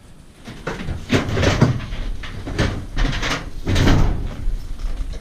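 Collected scrap items being shifted and rearranged by hand: a run of about four knocks, clatters and scrapes.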